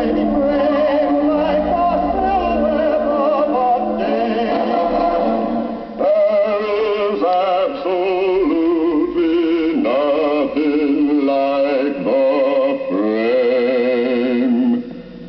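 Male voices singing sustained notes with vibrato in harmony, the chord changing every second or so, with the narrow, dull range of an old recording. There is a short break just before the middle.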